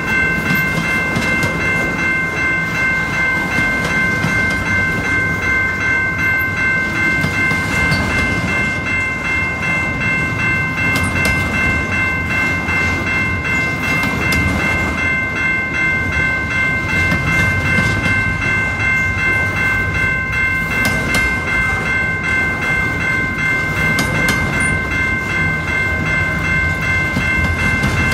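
Freight train cars rolling past: a steady low rumble of wheels on rail with scattered clacks, and a high, steady squealing ringing held over it.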